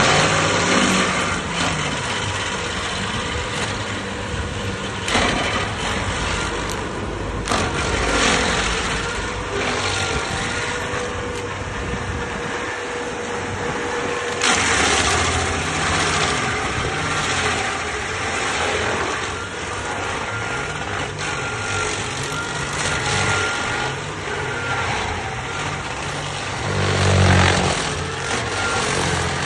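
Stump grinder's engine running under load while its cutting wheel grinds into a large tree stump. The engine note rises and falls, with surges of grinding noise several times and a loud swell near the end.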